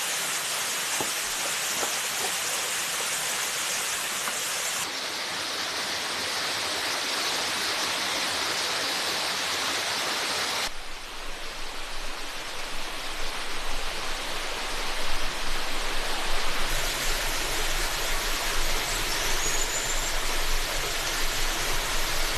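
Steady rushing of a forest stream, its tone and level shifting abruptly three times. A brief high rising chirp near the end.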